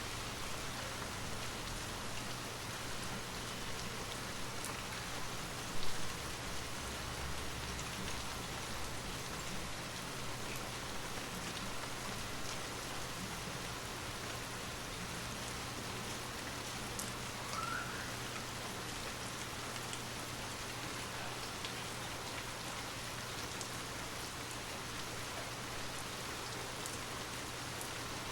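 Steady rain falling, with one brief louder burst about six seconds in.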